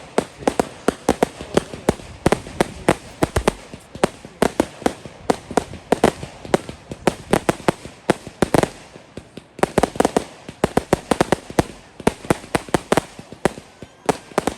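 Fireworks display: a rapid string of sharp bangs and crackles, several a second, with a brief lull about nine and a half seconds in.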